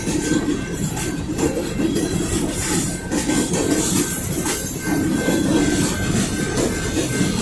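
Freight train of covered hopper cars rolling past: a steady rumble and clatter of steel wheels on the rails, with a faint high wheel squeal that comes and goes.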